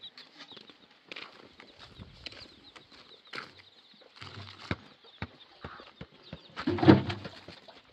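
Birds chirping and clucking, with scattered knocks and a louder burst shortly before the end.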